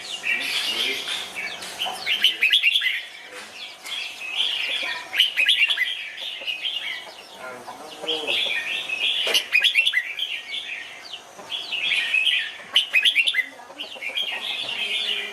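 Red-whiskered bulbuls singing: short phrases of quick, bright chirping notes, repeated every two to three seconds.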